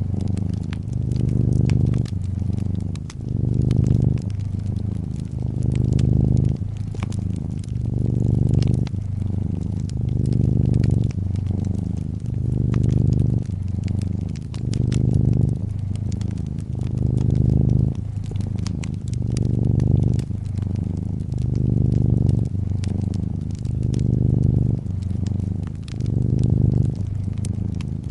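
Domestic cat purring close up, a low rumble that swells and eases with each breath, about once every two seconds. Wood fire crackling over it with frequent small sharp pops.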